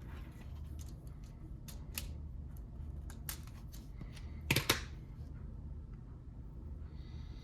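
Light plastic clicks and taps of Lego bricks being handled and pressed together, irregular, with a louder double click about four and a half seconds in, over a steady low hum.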